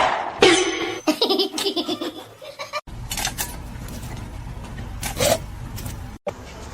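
A person laughing in quick repeated bursts, cut off suddenly about three seconds in, followed by quieter background noise with a couple of brief sounds.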